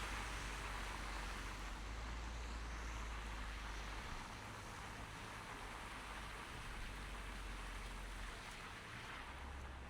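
Driving noise in snow: tyres hissing on a wet, slushy street over a low engine and road rumble. The low rumble drops away about four seconds in and the hiss eases slightly.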